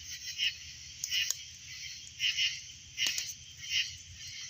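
Campfire wood crackling with a few sharp pops, under a steady night chorus of chirping calls repeating about one and a half times a second.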